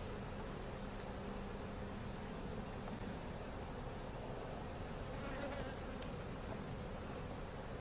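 Honeybees buzzing around an open hive, a steady hum, with one bee's buzz holding a steady pitch close by for about the first three seconds.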